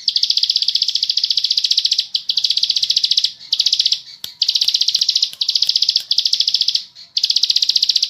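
Ciblek sawah (a small prinia) singing its 'ngebren' song. The song is a run of rapid, high, buzzing trills in phrases of about one to two seconds, with short gaps between them.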